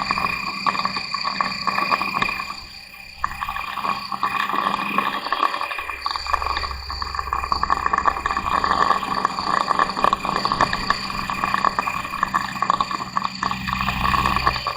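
A vehicle's engine and transmission running, with steady high-pitched whining tones over a rushing noise. The level dips briefly about two to three seconds in.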